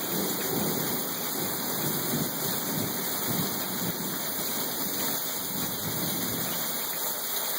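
Heavy rain pouring steadily in a thunderstorm, with a low rumble of thunder dying away over the first few seconds.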